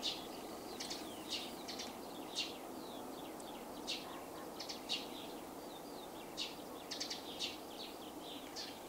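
Small birds chirping, with short high calls coming every half second or so, over a faint steady background noise.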